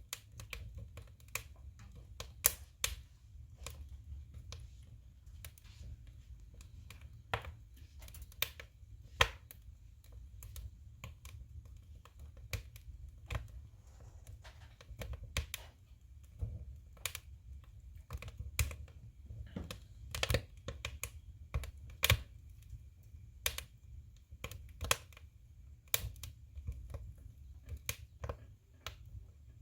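Firewood burning in a wood stove, crackling with irregular sharp pops, a few of them much louder, over a low steady rumble.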